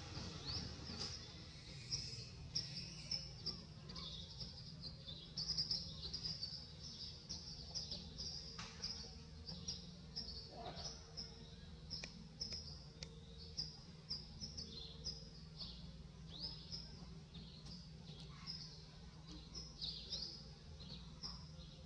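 Small birds chirping, a constant scatter of short high calls, some sweeping up or down, over a steady low background rumble.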